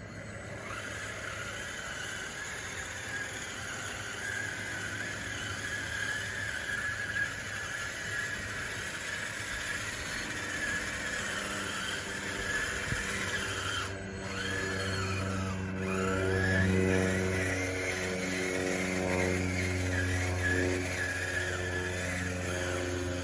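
DXR2 RC bulldozer working, its drive motors whining with a pitch that wavers up and down as the load changes. About two thirds of the way through, a steadier low hum joins and grows louder.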